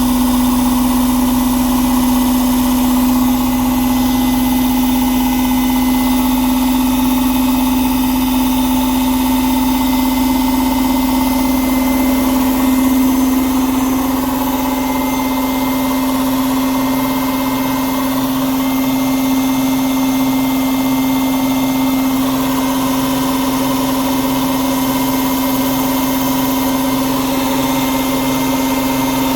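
Indesit 1400-spin washing machine running with its covers off: motor and belt pulley turning the drum at a steady speed, with a strong steady hum. From about halfway, a faint regular pulsing joins in.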